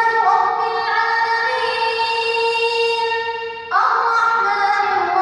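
Quran recitation in a high-pitched voice, chanted melodically with long, drawn-out held notes; one phrase ends and a new one begins a little over halfway through.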